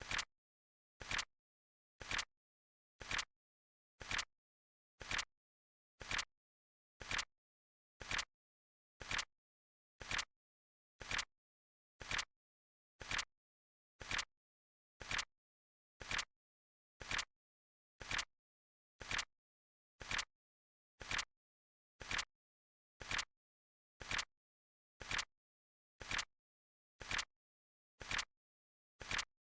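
Flip clock timer sound effect: a sharp click about once a second, evenly spaced and of even loudness, ticking the countdown along.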